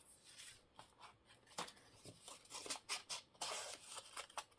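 Paper scraps being handled on a desk: a run of faint rustles, taps and scratches, getting busier from about a third of the way in.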